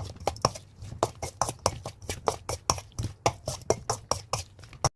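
A utensil clicking against a bowl while burdock kimchi is mixed with its seasoning, a steady run of about five clicks a second that cuts off suddenly near the end.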